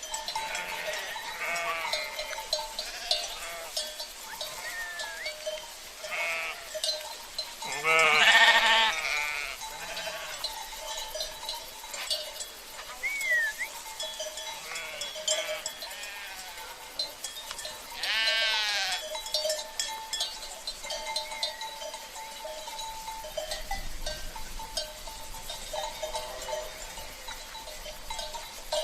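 Sheep bleating, with a loud bleat about eight seconds in and another near the middle, over the constant jingling and clanking of cencerros, the livestock bells worn by the flock.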